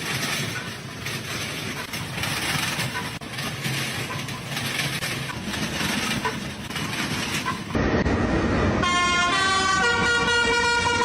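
Road traffic noise, with a vehicle horn sounding in the last couple of seconds.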